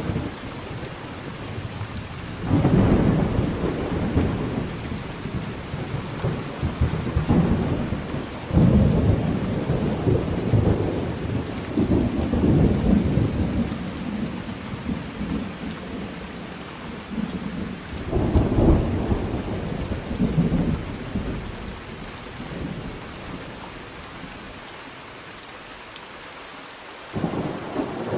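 Thunderstorm: steady rain with rolling thunder, several loud low rumbles a few seconds apart that die away toward the end before another begins.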